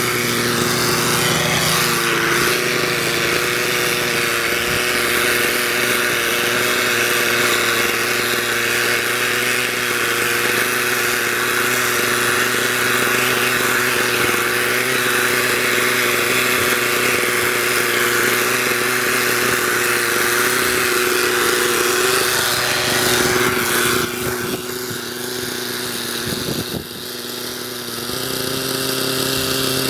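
Hirobo Sceadu engine-powered RC helicopter flying, its small engine and rotors running at a steady pitch. The sound drops and thins about 24 seconds in, then the steady engine note comes back near the end.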